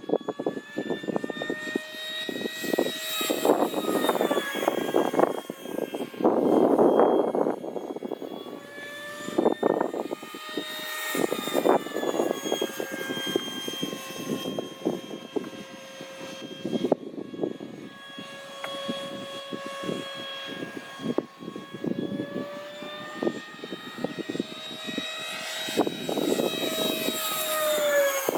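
90 mm electric ducted fan of a Freewing F/A-18 RC jet whining in flight, its pitch sliding up and down as the jet makes passes. Gusts of wind rumble on the microphone at times, loudest near the start and the end.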